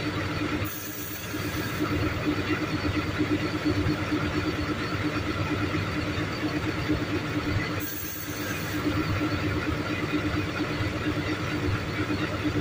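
Truck engines running steadily, the hum dipping briefly twice.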